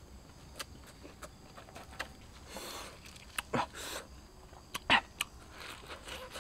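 Close-up chewing of cooked crickets and lettuce: scattered wet clicks and short crunches, the loudest a few seconds in.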